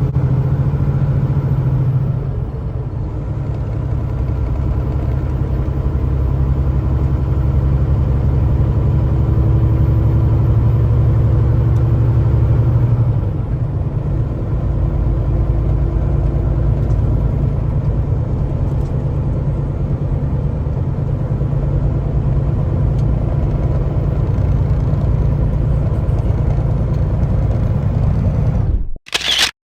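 Kenworth T680 semi-truck cruising on the highway: a steady engine drone under tyre and road rumble. The engine note eases a little about thirteen seconds in, and the sound cuts off abruptly near the end.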